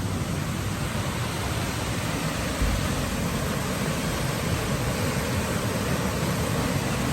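Waterfall's steady rush of falling water, with one brief low thump about two and a half seconds in.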